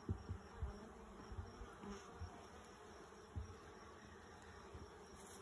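Honeybees buzzing around an open hive, a steady hum of many bees, with a few soft low knocks through it.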